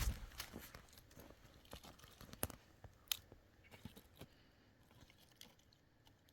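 Scattered faint crunches and sharp clicks, like things being handled, loudest right at the start, with two sharp clicks about two and a half and three seconds in.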